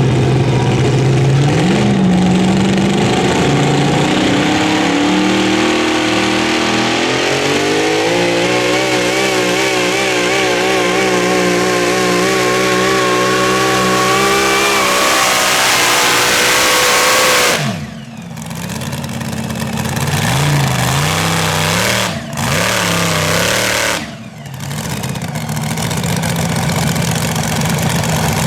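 Super modified four-wheel-drive pulling truck's engine at full throttle, its revs climbing steadily for about fifteen seconds during a pull, then cutting off suddenly. A few short throttle blips follow, and it settles to a lower, steady run near the end.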